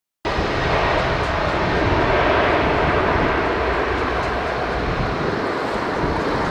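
Jet engines of a Boeing 767 freighter, a loud, steady rushing noise that cuts in suddenly just after the start and eases slightly over the last few seconds.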